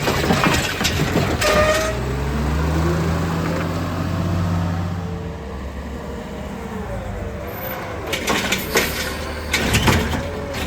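Heil Rapid Rail side-loader garbage truck working: clanks and rattles near the start, then the engine runs up steadily for a few seconds and eases off, followed by another burst of metallic clanking and rattling near the end.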